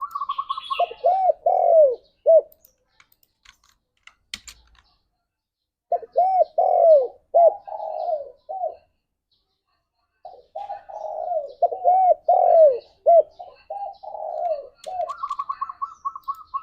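Spotted dove cooing: three phrases of rising-and-falling coos, with pauses of a few seconds between them. A faster, higher-pitched trill comes at the start and again near the end, and a brief high chirp sounds early on.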